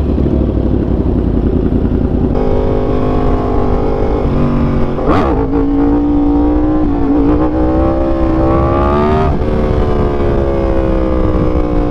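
2023 Yamaha R1's crossplane inline-four revving hard under acceleration. The pitch climbs, breaks briefly about five seconds in, climbs again to a peak near nine seconds, then drops and eases down as the throttle comes off.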